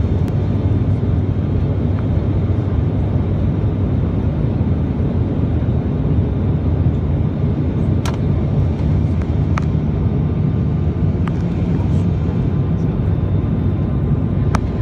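Steady low drone of an ATR 72's twin turboprop engines and propellers, heard from inside the passenger cabin during descent. A few faint clicks occur in the second half.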